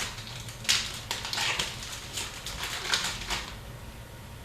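Trading cards being handled and flipped through: an irregular run of crisp flicks and rustles that stops about three and a half seconds in.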